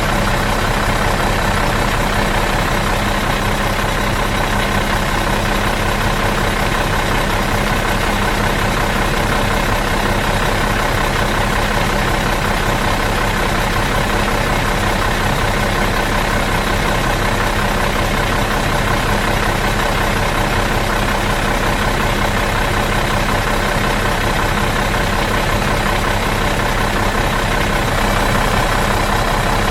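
Bus diesel engine idling steadily out of gear, an even, unchanging hum.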